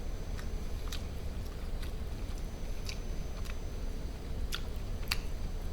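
A person chewing food close to the microphone, with scattered short wet mouth clicks and smacks. The food is barbecued duck meat, eaten as a mukbang eating sound.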